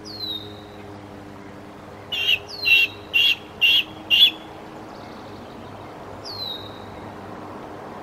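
Wild birds calling: a high whistle that slides down in pitch, heard twice, and between them a run of five loud, sharp notes about half a second apart.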